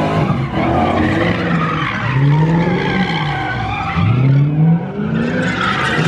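Car engine revving in repeated rising surges about every two seconds, with tires squealing and screeching under it.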